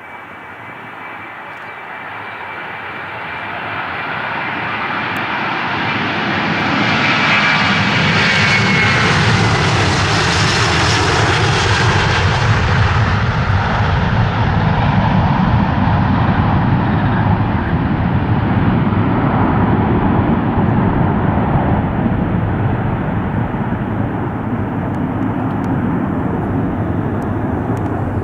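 Jet airliner passing close by: engine noise builds up, a high whine glides down in pitch as it passes about eight seconds in, then a low rumble lingers and eases slightly.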